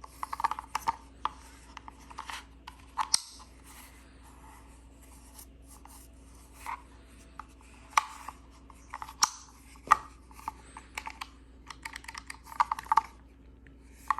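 Unboxing handling noise: irregular clicks, scrapes and rustles of the packaging and plastic vacuum parts being handled, with a faint steady hum underneath.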